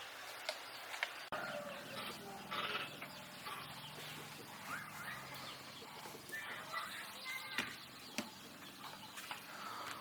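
Birds calling in short chirps, with scattered sharp knocks.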